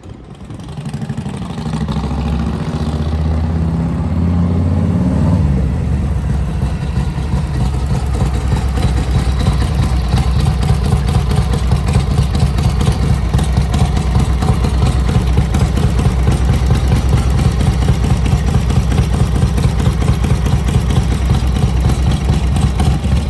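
1946 Harley-Davidson EL Knucklehead's 61-cubic-inch overhead-valve V-twin running: it climbs in pitch and loudness for about five seconds, drops back, then runs steadily with an even beat of firing pulses.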